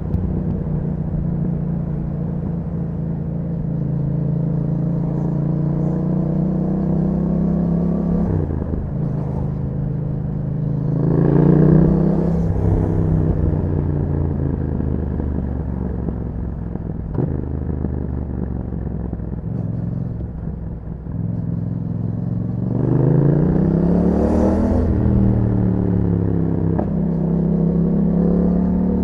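2021 Yamaha MT-07's 689 cc parallel-twin engine through an Akrapovic exhaust fitted with a dB killer, running under way. It revs up and falls back twice, about eleven seconds in and again about twenty-three seconds in, between steadier cruising stretches.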